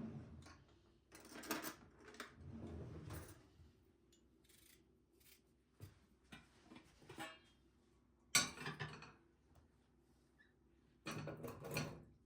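Dishes and utensils being handled and set down, in several separate bursts of clinking and knocking; the loudest is a sharp knock about eight seconds in.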